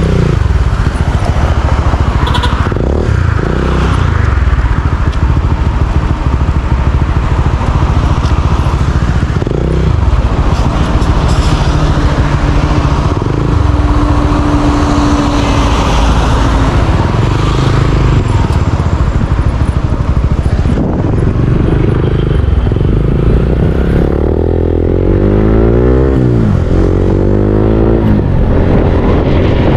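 Motorcycle riding along a road: engine running under a heavy low wind rumble on the microphone, its pitch rising and falling a few times near the end as the throttle changes.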